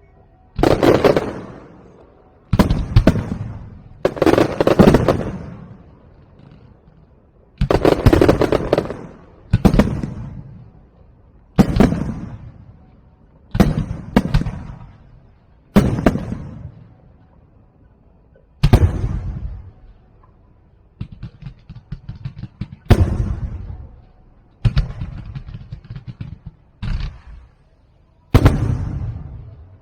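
Aerial firework shells bursting one after another, a loud bang about every two seconds, each trailing off in a rolling echo. In the second half, thinner crackling pops come between the bangs.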